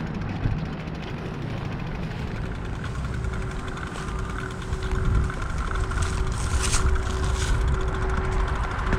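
A motor vehicle engine running with a steady low rumble and a held hum, with a short hiss about six to seven seconds in.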